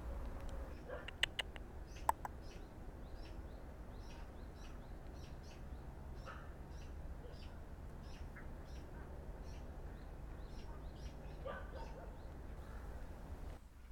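Forest birdsong: a small bird gives a long run of short, high chirps, two or three a second, over a low rumble. A few sharp clicks come about a second in, the loudest about two seconds in.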